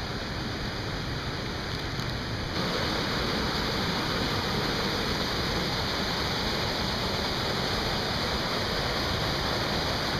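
Waterfall rushing, a steady roar of falling water; it gets suddenly louder about two and a half seconds in.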